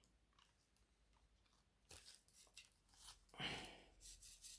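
Faint crinkling and light clicking as a small plastic bag of diamond painting drills is handled, starting about two seconds in, with one slightly louder rustle a little later.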